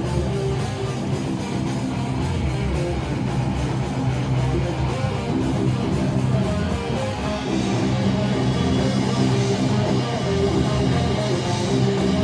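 Live metal band playing an instrumental passage, loud electric guitar chords over bass and drums, with no vocals.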